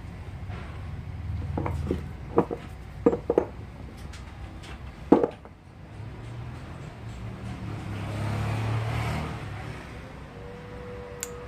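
Sharp metallic clinks and taps, about five of them in the first half, as parts of a car air-conditioning compressor's magnetic clutch and pulley are handled and fitted, over a low steady hum.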